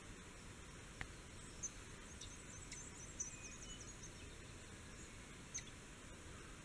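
Faint, scattered high-pitched bird chirps over a low background hiss, with a quick run of short down-slurred notes about two to three seconds in. A few soft clicks are also heard.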